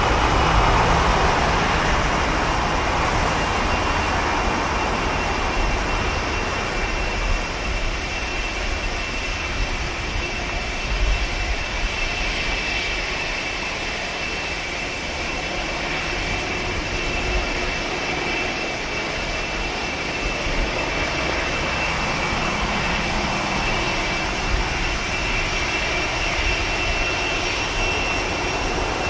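Boeing 747-400's four Rolls-Royce RB211 turbofans at takeoff power: a steady jet roar with a thin high fan whine, loudest in the first few seconds and easing off a little.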